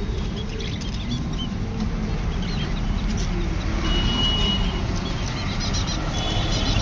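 Caged birds chirping and whistling, with short high calls and a few held whistle notes over a steady low background rumble.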